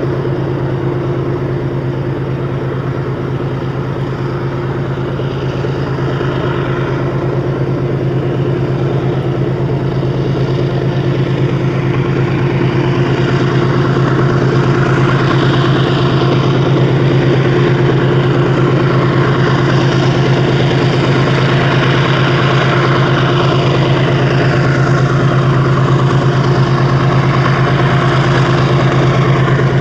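Steady machine hum at a constant pitch, slowly growing louder.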